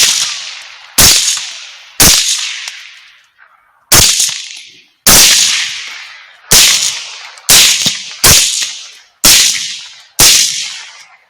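Rapid rifle fire: about ten sharp shots, roughly one a second, each followed by a rolling echo that dies away before the next.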